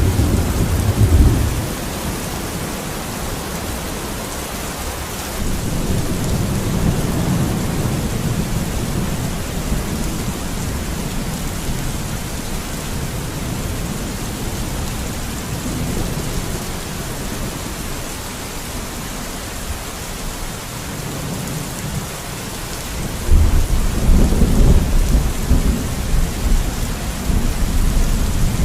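Steady rain falling, an even hiss throughout. Deep low rumbles swell under it three times, the loudest starting suddenly near the end.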